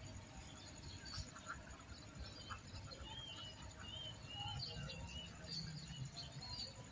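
Faint birds chirping, with a run of short repeated chirps a few seconds in, over a low steady background rumble.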